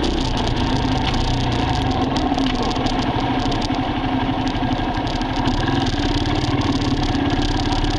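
Dirt bike engine running at low, fairly steady revs, its firing pulses close and even.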